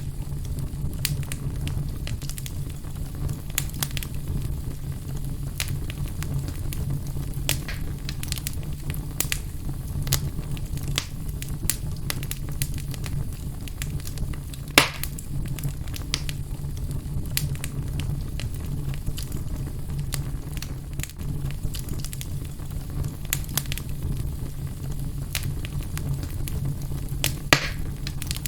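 Fire burning in a fireplace, crackling with frequent small pops over a low steady rumble. Two louder pops stand out, about halfway through and near the end.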